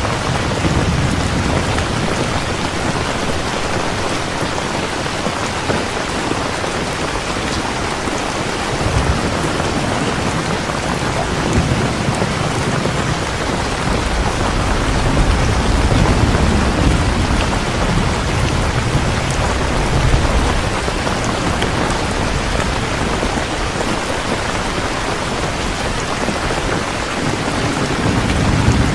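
Heavy rain falling steadily, with low thunder rumbling and swelling several times, strongest about a third and two-thirds of the way through.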